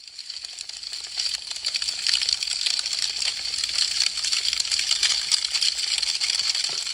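Wood fire crackling: a dense, rapid stream of small pops and snaps from burning branches. It fades in over the first couple of seconds, then holds steady.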